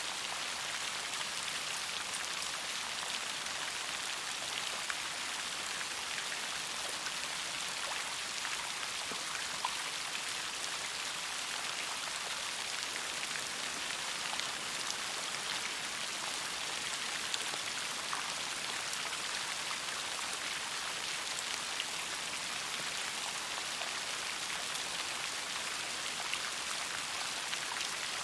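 Steady rain, with many small droplet ticks scattered through an even hiss.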